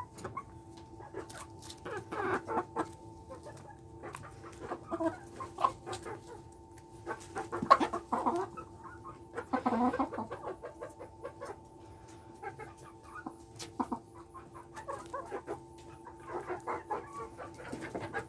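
Polish chickens clucking in scattered short bursts, over a faint steady hum.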